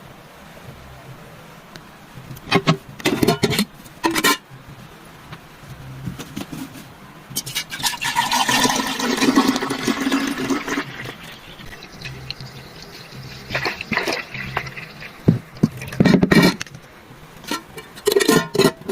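Cleaning-product containers and packaging being handled, with sharp clicks and knocks, and a rushing, pouring sound lasting about three seconds, starting about eight seconds in.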